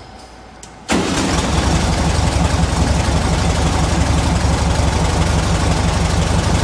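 Air-cooled flat-four engine of a 1969 VW Beetle idling steadily. It comes in abruptly about a second in.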